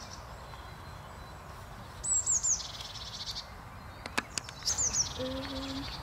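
A songbird singing twice: a few quick high descending chirps followed by a rapid trill about two seconds in, then again near the end.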